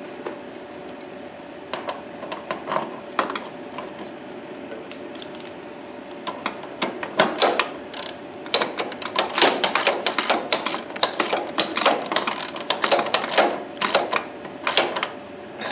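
Socket ratchet clicking while a lock nut is run down onto a ground terminal: a few scattered clicks at first, then rapid runs of ratcheting clicks from about halfway through. A faint steady hum sits underneath.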